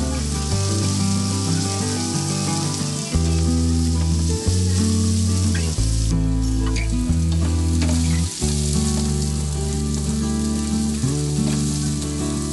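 Diced carrots sizzling as they fry in oil in a nonstick pan, with a few spatula scrapes as they are stirred. Background music with a deep bass line plays underneath.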